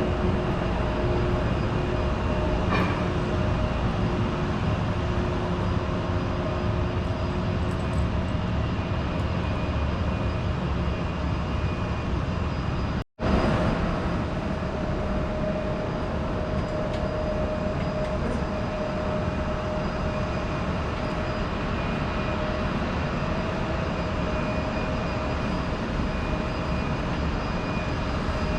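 Steady noise of jet aircraft engines, a constant rush with a few held whining tones. It breaks off for an instant about 13 seconds in and then resumes unchanged.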